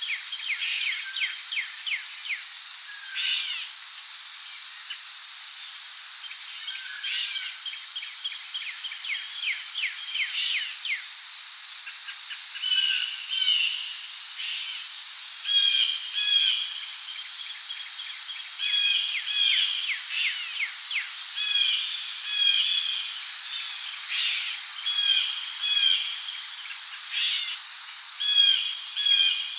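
Tropical rainforest ambience: a steady, high-pitched insect drone with many bird calls over it, quick descending chirps early on and, from about twelve seconds in, repeated short paired calls.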